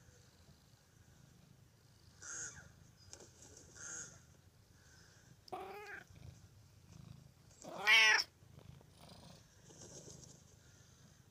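A domestic cat meows twice, each call rising and falling in pitch. The first is short, about five and a half seconds in; the second, about two seconds later, is louder and longer. Faint, high bird chirps from a bird video sound in between.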